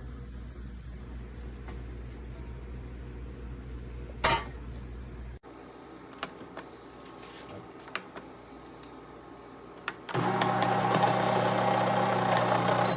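A low steady hum with a sharp click cuts off about five seconds in. A few seconds later the Café Bellissimo espresso machine's built-in bean grinder motor starts and runs loudly and steadily. The grinder is clogged and delivers almost no grounds.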